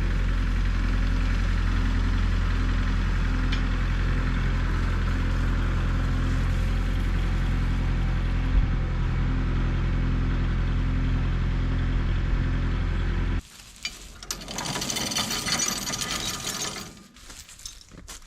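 Air compressor running steadily with an even pulsing beat, then cutting off suddenly about thirteen seconds in. A few seconds of hissing and rattling follow.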